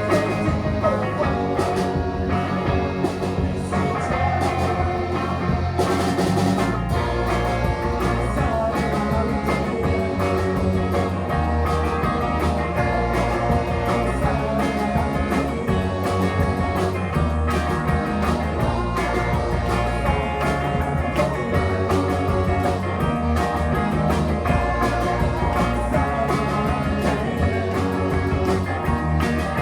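A rock band playing a psychedelic-tinged rock song: guitars over bass with a steady drum beat.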